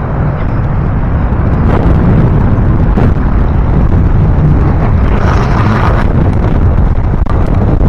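Wind rumbling steadily on an action camera's microphone during a bicycle ride along a trail, with riding noise and a few light knocks.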